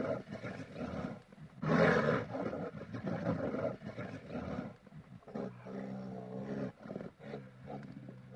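A large animal roaring: a loud rough roar about two seconds in, then a lower, steadier groaning call from about five seconds in.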